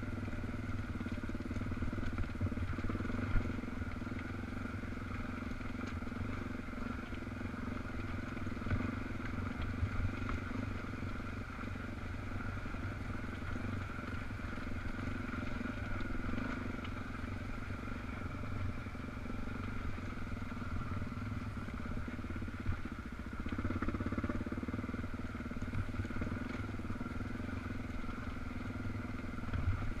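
Dual-sport motorcycle engine running steadily while riding a trail, with a few short knocks along the way.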